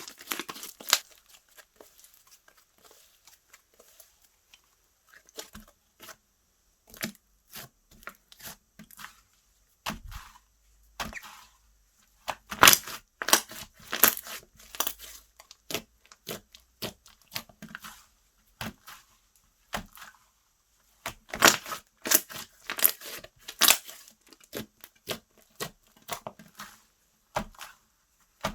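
Slime being stretched, pulled apart and squished by hand, giving irregular sticky crackles and popping clicks, busiest about halfway through and again near the end.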